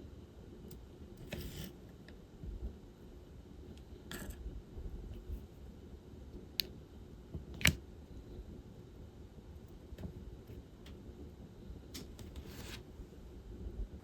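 Diamond painting work: scattered light clicks and taps of plastic resin drills and the drill pen, with a few short rustles. The sharpest, loudest click comes a little past halfway.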